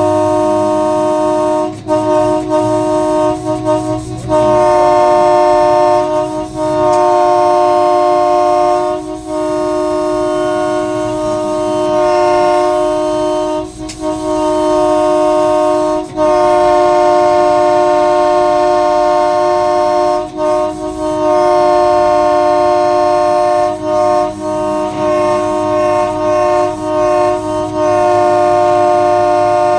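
Locomotive horn sounded in long, repeated blasts with brief breaks between them, then several short toots in quick succession near the end, over the low rumble of the running train. The horn is a warning to drive a cow off the track ahead.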